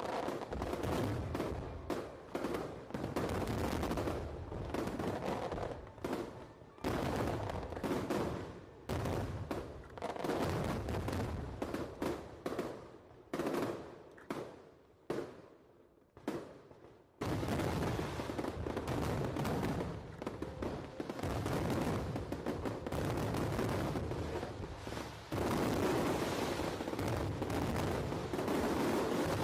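Aerial fireworks going off in a rapid barrage of bangs and crackles. The bursts thin out for a few seconds around the middle, then pick up again into a dense, continuous volley.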